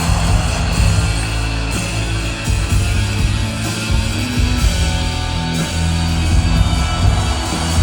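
Live rock band playing loud, dense rock music with heavy sustained bass notes.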